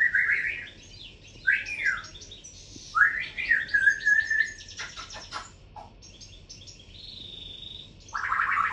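Cockatiel calling: short, raspy calls that sweep upward, about a second and a half apart, then a few sharp clicks and a longer call near the end.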